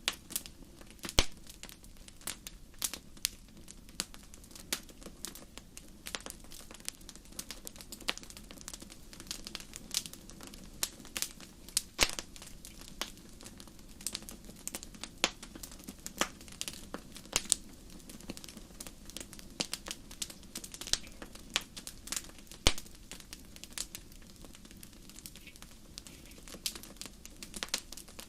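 Wood fire crackling: irregular sharp pops and snaps over a steady low rustle of burning, with one louder pop about a second in.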